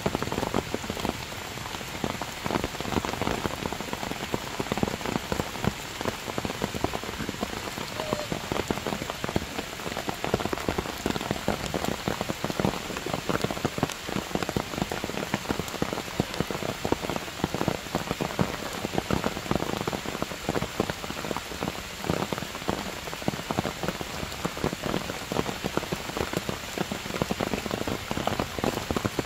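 Heavy rain falling steadily, a dense, unbroken hiss of countless drop impacts.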